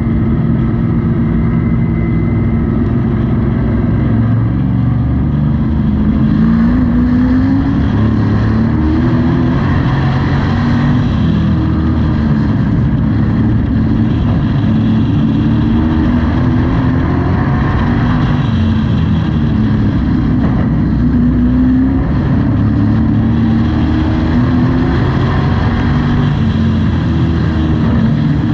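Race truck engine heard from inside the cab, under racing load around a short oval. Its pitch rises and falls every four to six seconds as the truck accelerates along each straight and lifts for each turn.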